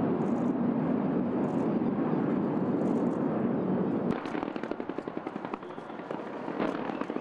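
A dense, steady low roar for about four seconds, then an abrupt cut to fireworks crackling: rapid sharp pops and cracks, quieter than the roar.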